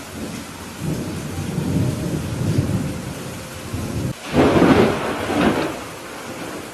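Steady rain with thunder: a low rumble building from about a second in, then a loud, sharper clap just after four seconds that rolls on with a second swell and dies away about two seconds later.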